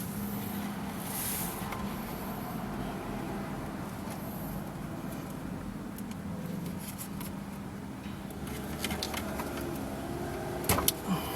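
A wire stripper working the insulation off a car wire: faint scraping, then a few small sharp clicks near the end, over a steady low background hum.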